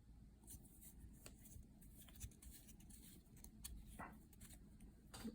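Near silence with faint scattered clicks and rustles of small objects being handled, one slightly louder click about four seconds in.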